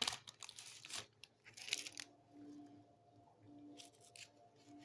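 Short rustling, tearing bursts of handled packaging in the first two seconds, then it goes quiet.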